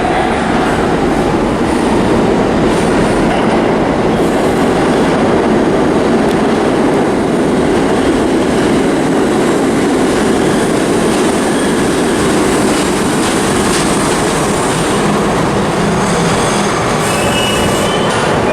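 Vintage New York City subway train running on the rails, a steady loud rumble with faint high wheel squeals, a few clearer thin squeals near the end.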